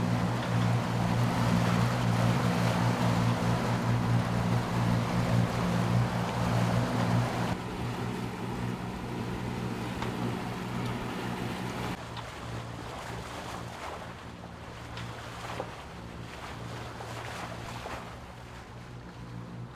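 Sailing catamaran motoring under engine: a steady engine hum under water rushing and splashing along the hulls, with some wind on the microphone. The water noise is loudest for the first several seconds, then drops away in two abrupt steps, leaving mostly the engine hum.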